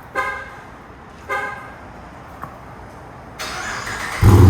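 Two short car-horn chirps, then near the end the Dodge Charger R/T's 5.7-litre Hemi V8 cranks and fires up loud. Its exhaust now has no mufflers: the mufflers have been replaced with 2¼-inch pipe and only the resonators remain.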